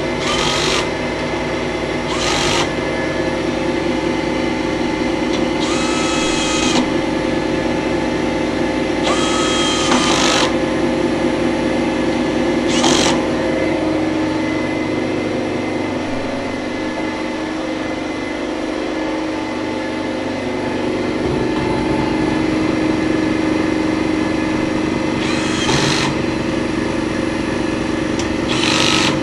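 Kärcher MV 6 P Premium wet-and-dry vacuum cleaner running steadily, with about seven short whistling surges as the suction changes at the nozzle.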